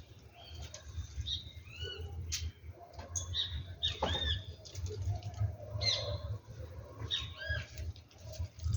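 Small birds chirping: a handful of short, arched chirps at irregular intervals, over a steady low rumble.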